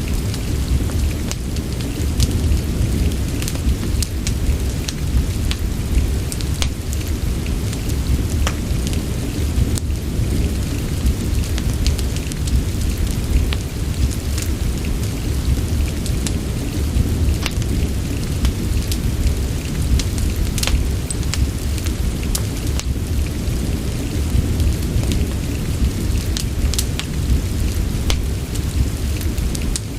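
Rain and wood-fire ambience: a steady hiss of rain over a deep, even rumble, with scattered sharp crackles and pops from the burning logs.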